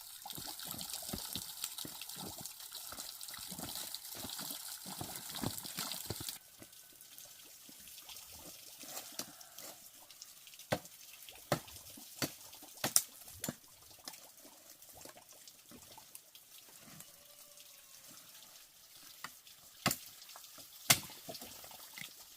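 Water running or splashing for about six seconds, stopping abruptly, followed by scattered sharp knocks and clicks.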